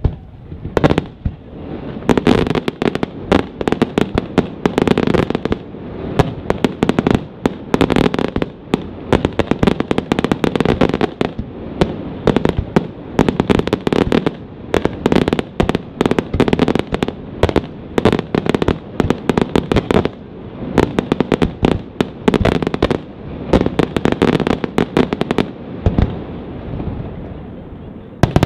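Aerial fireworks display: a dense, continuous barrage of shell bursts and sharp bangs, several a second, running together.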